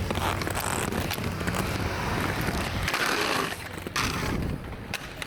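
Skate wheels rolling on street pavement with a steady rumble, ending in a sharp knock about four seconds in.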